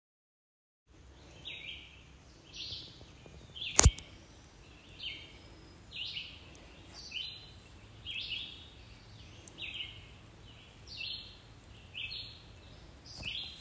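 A bird calling one short falling note over and over, roughly once a second, over a faint low rumble. About four seconds in there is a single sharp knock.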